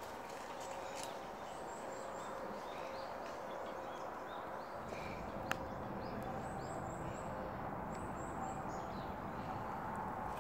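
Forest ambience with a small bird's very high, thin calls in short runs of about four notes, heard several times, over a faint steady hum. A single sharp click comes about halfway, and low rustling from walking or handling the camera rises in the second half.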